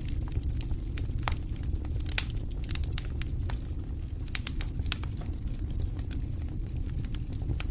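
Campfire crackling with irregular sharp pops and snaps, the sharpest about two seconds in, over a steady low rumble.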